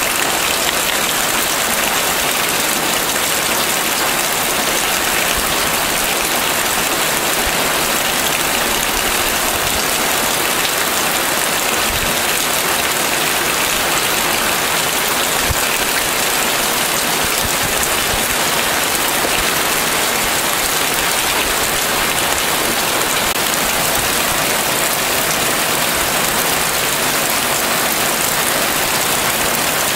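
Heavy rain falling steadily: a dense, even hiss of drops that holds level throughout.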